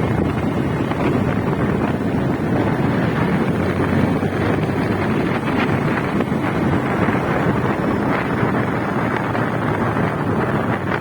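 Wind buffeting the microphone over the rumble of a moving motorcycle, a loud, steady, even noise.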